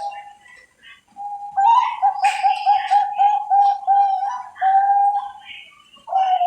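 Zebra dove (perkutut, Bangkok strain) cooing: one song phrase starting about a second in, a rising opening note, then a quick rippling run of short coos at about four to five a second, and a longer held note to close. A new phrase begins near the end.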